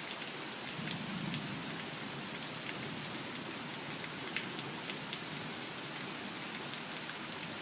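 Heavy rain falling steadily, with scattered sharp ticks of single drops landing close by.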